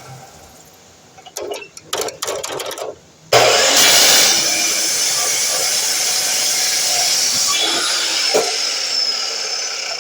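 A few short knocks, then about three seconds in a DeWalt miter saw's motor starts abruptly and runs loud and steady.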